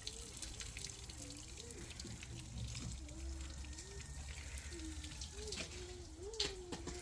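Water trickling and dripping, with a person's low voice humming a wavering tune over it and a few sharp clicks near the end.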